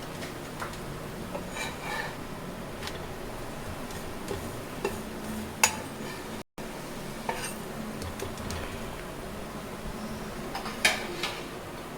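Scattered clinks and taps of cooking utensils against a pan while a stuffed chapathi cooks, over a steady low background hum, with a louder clink about halfway through and another near the end.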